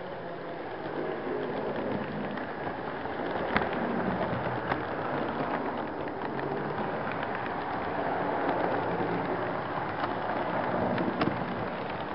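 HO-scale model train cars rolling along the track, picked up by a camera riding on a flatcar: a steady rattling rumble of wheels on rail with a few sharp clicks.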